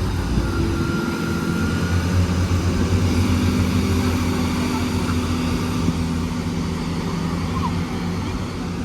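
Class 166 diesel multiple unit pulling away from the platform, its diesel engines running under power with a steady drone. The drone eases off slightly near the end as the train moves away.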